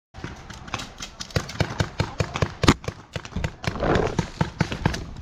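A rapid, irregular series of sharp clicks and knocks, several a second, with a short rustling patch about four seconds in.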